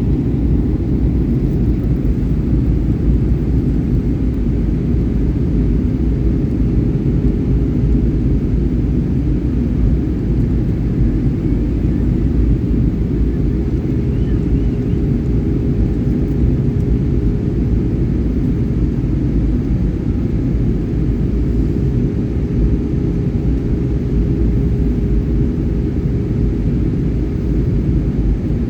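Passenger jet in flight: a steady low rumble with a constant hum, unchanging throughout.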